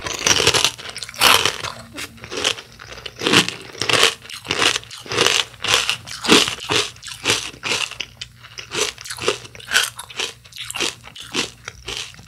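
Close-up crunching and chewing of crispy cereal in milk: a quick run of crisp crunches, about two or three a second, louder in the first half and softer toward the end.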